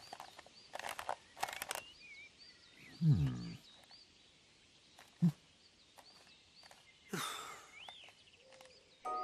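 Cartoon bird chirping: short, high, hooked chirps repeating about twice a second, with a few rustling swishes and a low falling groan about three seconds in.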